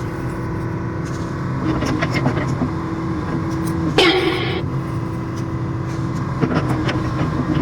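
Heavy construction machinery, an excavator or dump truck diesel engine, running steadily with a low drone. A short, loud hiss with a bending squeal comes about four seconds in.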